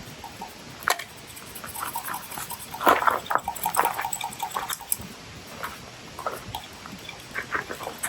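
Wood campfire crackling, with irregular sharp pops over a steady hiss; a single loud crack about a second in and a dense run of pops from about three to five seconds in.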